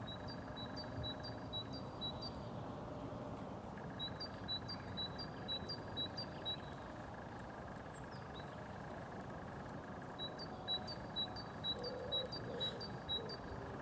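A bird singing three phrases of quick, evenly repeated high notes, about three a second, over a steady low background rumble.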